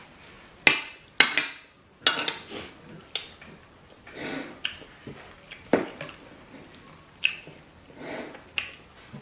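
Cutlery clinking and scraping against dishes during a meal, about eight sharp clinks at uneven intervals with softer, duller sounds between them.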